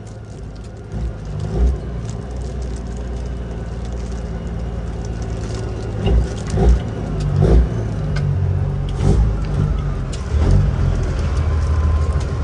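Cat 6NZ diesel engine of a heavily loaded Kenworth W900L running steadily under load, slowly growing louder, with several short low thumps around the middle.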